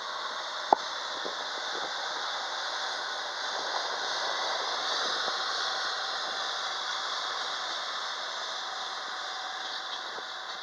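Regional train hauled by a D445 diesel locomotive rolling along the rails, a steady rushing and rattling that swells toward the middle and eases off. A single sharp click comes about a second in.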